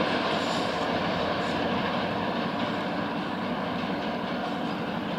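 Diesel locomotive running while hauling passenger cars along the track: a steady engine hum and rolling train noise that slowly fades.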